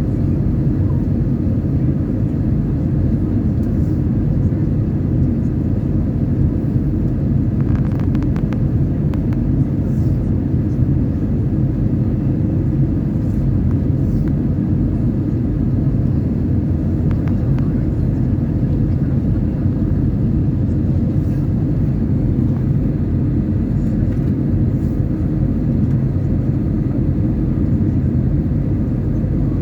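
Airliner cabin noise heard from inside the cabin: a steady low rumble of engines and airflow as the plane descends before landing, with a few faint ticks about eight seconds in.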